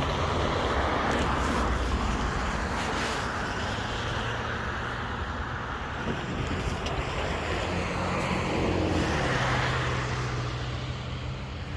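Motor vehicles passing: a steady rush of road noise that swells twice, over a low engine hum.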